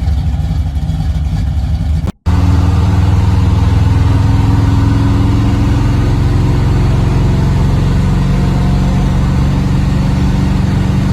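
Classic muscle car's engine and exhaust running steadily at constant revs with a deep, even tone. The sound cuts out for an instant about two seconds in, then resumes louder.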